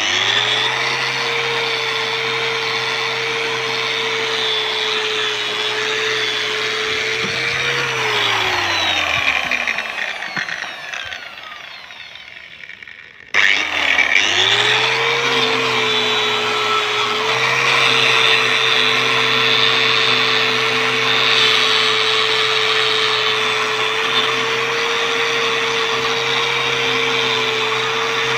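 Electric angle grinder with a wire brush running, scouring carbon crust and rust off a motorcycle exhaust header pipe. About eight seconds in it is switched off and winds down with a falling whine, then starts again about five seconds later and runs on.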